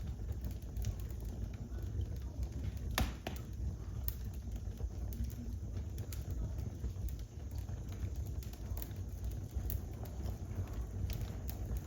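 Wood fire crackling in a fireplace: scattered sharp pops and snaps over a steady low rumble of the flames, with one louder pop about three seconds in.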